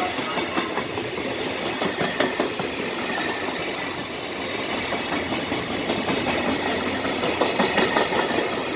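Container freight wagons rolling past at speed, with a steady rumble and the repeated clatter of wheels knocking over rail joints.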